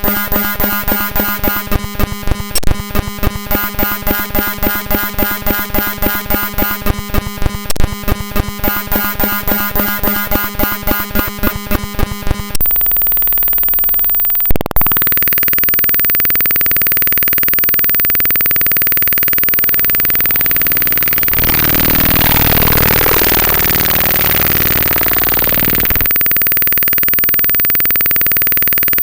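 Raw bytes of a Windows executable file played directly as audio: a harsh, rapidly pulsing digital buzz made of many steady tones. About halfway through it switches abruptly to a steady hiss with a faint held tone. A sharp click follows shortly after, and later there is a rougher, shifting stretch before the hiss settles again.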